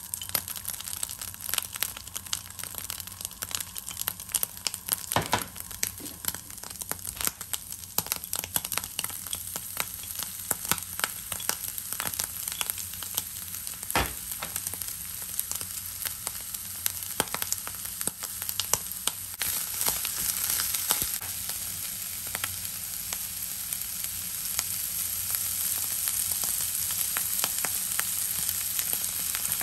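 Chopped zha cai (pickled mustard stem), ginger and green onion crackling and sizzling in a hot nonstick frying pan, with scattered sharp pops. The sizzle grows fuller and steadier about two-thirds of the way in.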